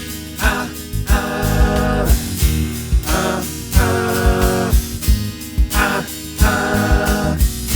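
Acoustic guitar playing an instrumental passage of held notes and chords, with short low thumps in a steady rhythm.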